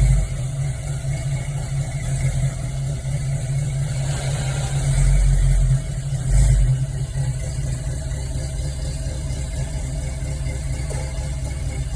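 1975 Chevrolet Camaro LT engine idling after a cold start, a steady low running sound with a couple of brief louder swells about five and six and a half seconds in.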